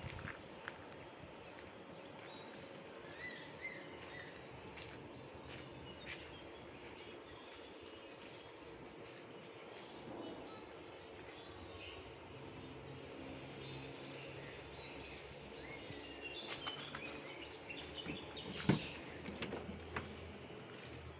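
Quiet outdoor background with birds calling: short, rapid high trills repeated four or five times over a faint steady hum, with a few sharp clicks near the end.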